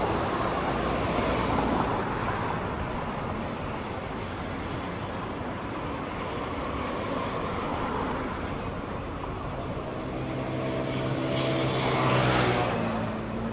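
Road traffic: vehicles passing on a street, with one engine coming close about two-thirds of the way in, its hum swelling to a peak and then fading as it passes.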